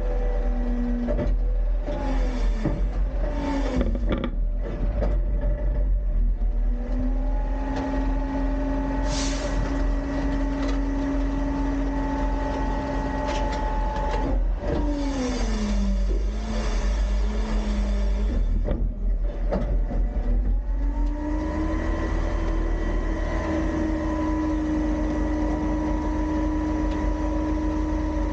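Autocar-Heil Freedom front-load garbage truck's engine revving up and holding a raised speed, dropping back near the middle, then rising again and holding, with clattering early on and a short air hiss about nine seconds in.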